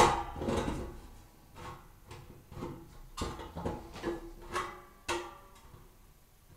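Stainless-steel chimney pipe parts being handled: a sharp knock at the start, then a string of light metal clicks and clinks, a few leaving a short metallic ring.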